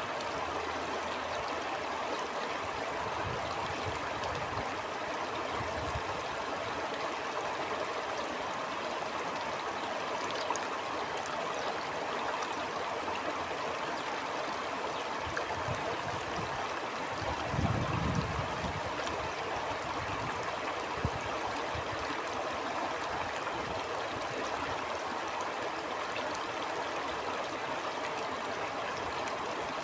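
Stream running steadily over its bed, an even rush of water with small trickles and gurgles. Low rumbles of wind come and go under it, the strongest a little past halfway.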